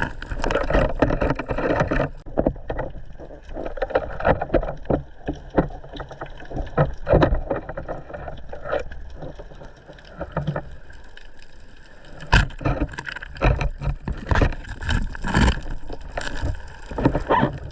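Water sloshing and splashing around a diver's camera in shallow sea water, with frequent irregular knocks and bumps.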